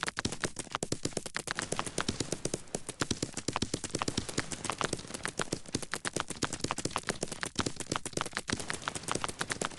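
Rapid, irregular clicking and tapping, many sharp clicks a second, going on without a break.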